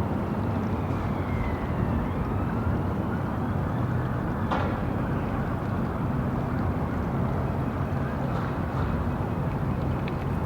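Steady city street ambience: a constant traffic rumble with a low hum, a faint thin tone slowly falling and then rising early on, and a single sharp click about four and a half seconds in.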